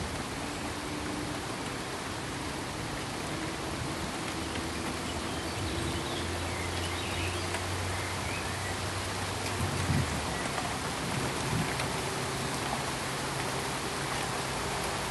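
Steady pink noise: an even, rain-like hiss across the whole range, with a faint low hum coming and going and a couple of soft low thumps about two thirds of the way in.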